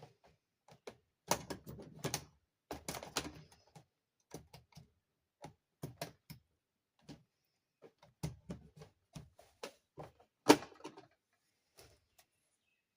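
Toy dollhouse parts being handled and fitted together: irregular clicks and knocks, some in quick clusters, with one sharper knock about ten seconds in.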